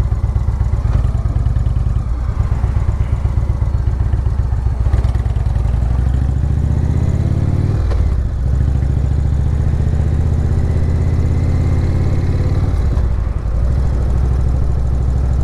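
Motorcycle engine running steadily under way, its note dipping briefly about eight seconds in and again near thirteen seconds.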